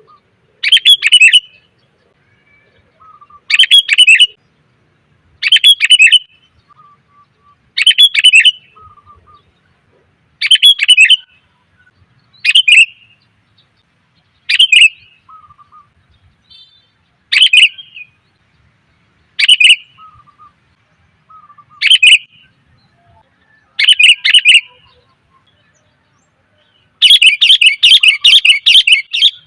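Sooty-headed bulbul calling: short bursts of rapid chattering notes about every two seconds, ending in a longer run of notes near the end. It is a female's call, the kind used as a lure to draw males.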